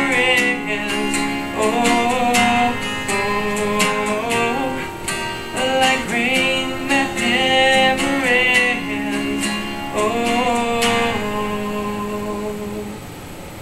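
Acoustic guitar strummed and picked in a song's closing instrumental, with the chords ringing. It gets quieter over the last couple of seconds as the song ends.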